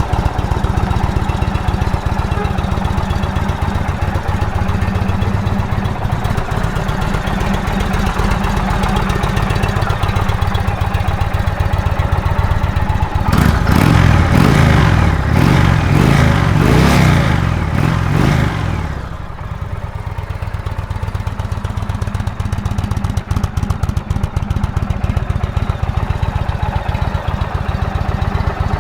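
Indian Thunder Stroke 111 air-cooled V-twin motorcycle engine idling with a steady low pulse. About halfway through it is revved for several seconds, then it drops back to idle.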